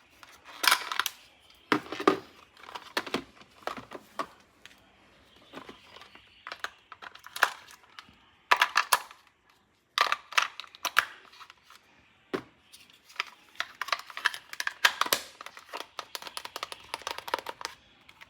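Plastic toy packaging crinkling and rustling as it is unwrapped, with irregular sharp clicks and taps from the handled toy parts.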